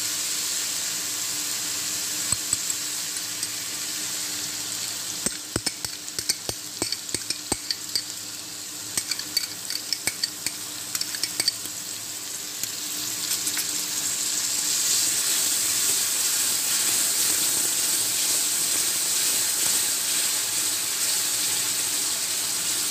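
Spices and oil sizzling in a non-stick pan, with a run of sharp clicks and taps between about five and eleven seconds in. From about thirteen seconds the sizzle grows louder as ground mustard and poppy-seed paste goes into the hot oil and is stirred with a wooden spatula.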